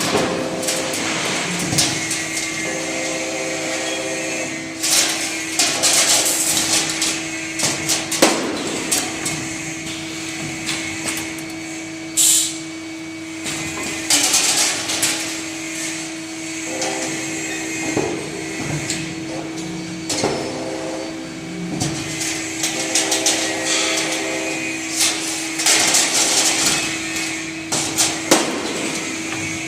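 Automatic clothes-hanger forming and double-sided welding machine running: a steady hum under repeated clanks and knocks every few seconds, with short bursts of hissing.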